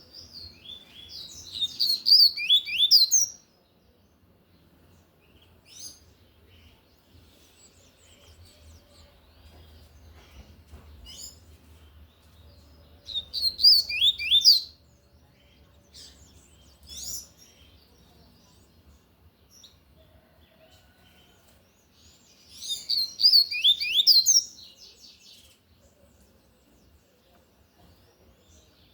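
Double-collared seedeater (coleiro) singing its loud 'tui-tui' song: three bursts of rapid, high sweeping notes, each about two to three seconds long, with a few soft chirps in the pauses between them.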